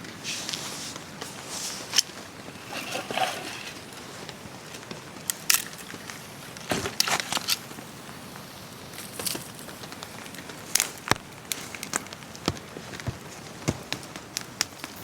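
Campfire of wet wood crackling, with irregular sharp cracks and snaps over a steady hiss.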